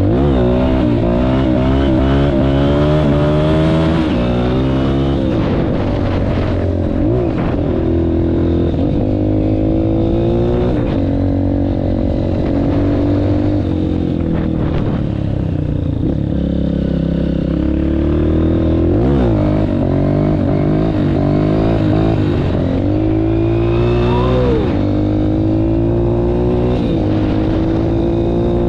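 Honda CRF230F dirt bike's single-cylinder four-stroke engine being ridden hard, revving up and dropping back again and again as the throttle is worked and the gears change.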